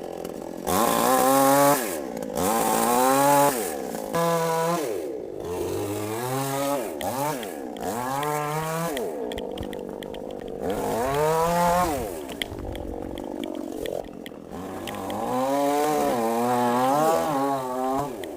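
Two-stroke chainsaw revved again and again, its engine pitch climbing to full throttle and dropping back toward idle about seven times, cutting wood during the loud stretches.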